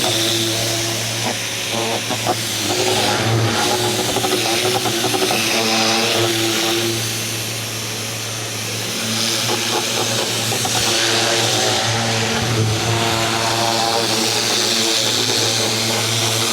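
Ryobi 2000 PSI electric pressure washer running with a steady hum, its water jet hissing against the fence; the spray dips briefly about halfway through.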